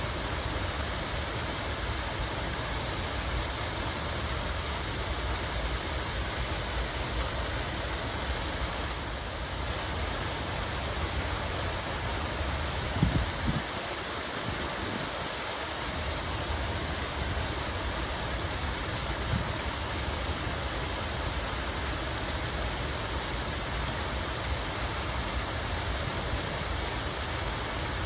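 Steady rush of running water in a park, an even hiss with a low rumble beneath it. A couple of brief low thumps come about halfway through.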